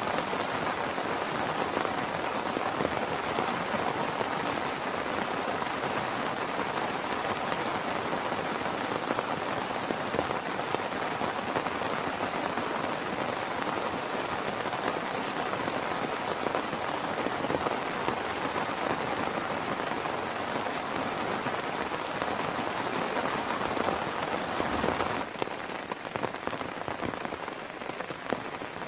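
Heavy rain falling steadily in a dense, even hiss. About 25 seconds in it drops suddenly to a quieter, softer rain.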